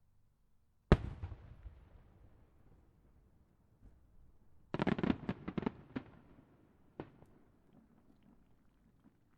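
A large aerial firework shell bursting: one sharp boom about a second in with a long rumbling decay, then a quick cluster of cracking reports around five seconds and a single further crack near seven seconds.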